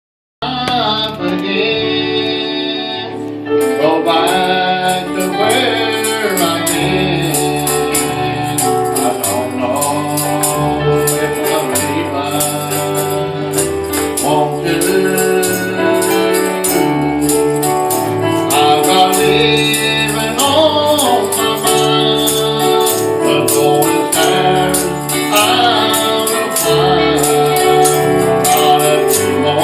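Gospel music with singing over a steady bass line and held chords. A tambourine comes in on the beat a few seconds in.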